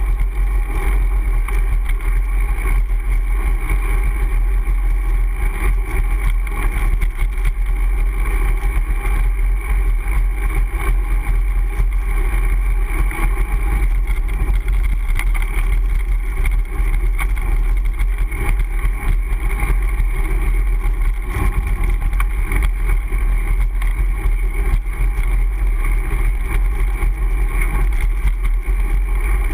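Wind and road noise from a Brompton folding bicycle in motion, picked up by a bike-mounted action camera: a steady, loud low rumble with no break.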